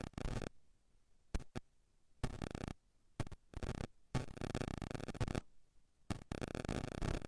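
Bursts of static noise cutting in and out abruptly, about five in a row, some brief and some over a second long, from an audio feed that is not yet carrying the service's sound.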